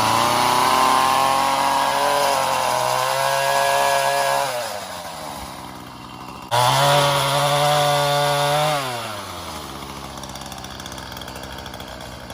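Poulan Pro pole saw's small two-stroke engine running at high revs, slowing back down about four seconds in. It is revved up sharply again a couple of seconds later, then settles to a lower steady idle.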